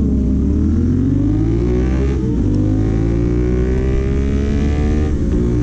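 Motorcycle engine accelerating hard through the gears: its pitch climbs, drops at an upshift about two seconds in, climbs again, and drops at a second upshift near the end. Steady wind rush runs under it.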